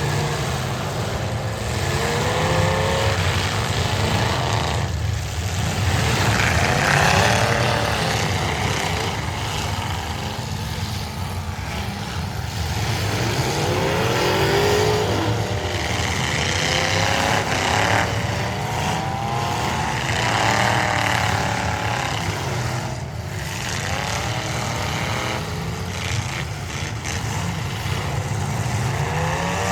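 Several demolition derby cars' engines running and revving together, their pitches repeatedly rising and falling over a steady low rumble.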